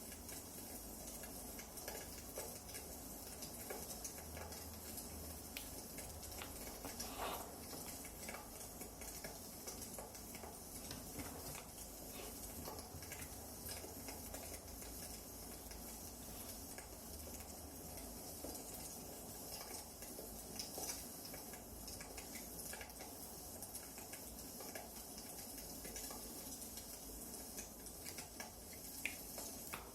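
Burning firewood crackling: a faint steady hiss full of small irregular pops and snaps, with a sharper pop about seven seconds in and another near the end.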